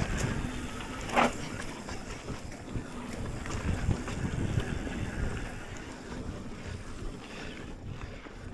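A mountain bike ridden down a dirt trail: wind buffeting the camera microphone over the steady rumble and rattle of the bike rolling. A short, sharp sound stands out about a second in.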